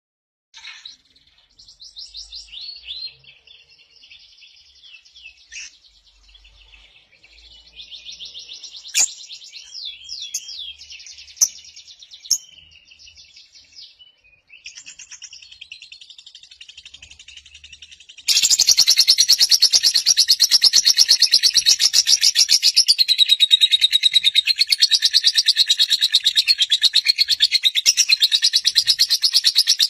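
Lovebird singing: scattered chirps and twitters at first. About 18 s in it breaks into a loud, rapid, unbroken chattering trill.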